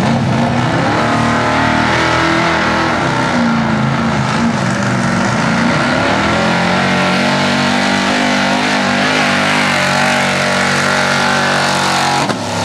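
A 6200-lb Open class 4x4 pulling truck's engine held at high revs under load during a pull, its pitch wavering. It drops off briefly near the end.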